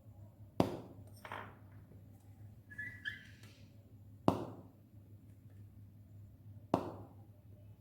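Hydrogen gas from zinc reacting with hydrochloric acid igniting at a candle flame with sharp pops: three loud pops a couple of seconds apart, and a weaker one just after the first. This is the characteristic pop test for hydrogen.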